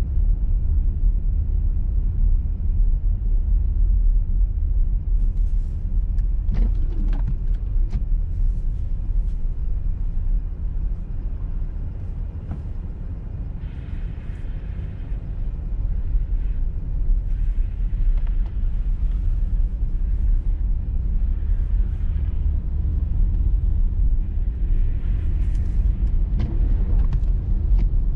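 A car driving on a snowy highway: a steady low rumble of road and tyre noise, easing a little for a few seconds midway, with several short passages of hiss and a few sharp clicks around seven seconds in and near the end.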